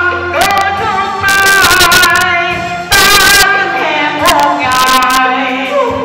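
Music: a voice singing a melody over instrumental accompaniment, with several sharp percussion hits.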